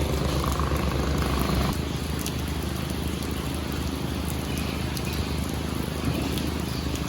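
A low, regularly pulsing engine throb that cuts out suddenly under two seconds in, leaving the steady hiss of rain with scattered faint drop ticks.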